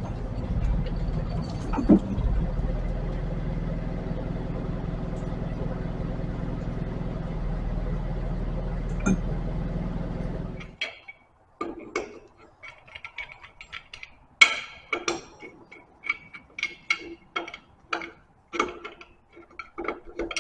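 An engine running steadily, which cuts off suddenly about eleven seconds in; after that, a run of sharp metal clinks and knocks from tools working on a hydraulic cylinder.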